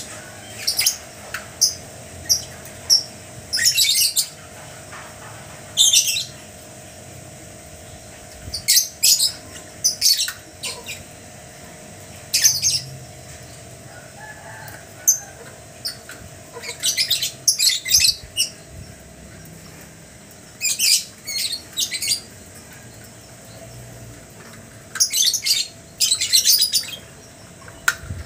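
Lovebird chirping in short, shrill bursts, some single and some in quick runs, at irregular intervals over a faint steady hum.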